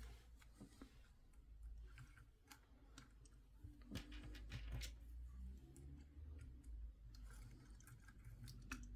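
Faint, scattered clicks and taps of small plastic toy parts being handled: toy missiles being fitted into the plastic storage racks of a Hailfire Droid toy.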